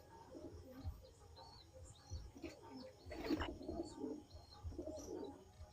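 Domestic Madrasi pigeons cooing softly, with a stronger coo about three seconds in and another near the end, and a few short high chirps in between.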